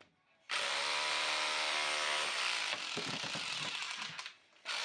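Electric power tool running under load with a steady motor whine, cutting through the wall. It starts about half a second in, stops briefly near the end and starts again.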